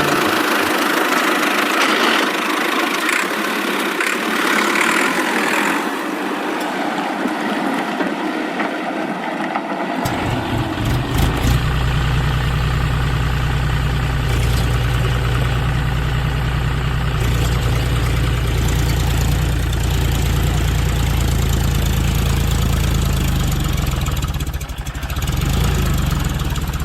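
Engine idling with a fast, even chugging that sets in about ten seconds in and runs steadily on; before it, a hissing whirr with no low rumble.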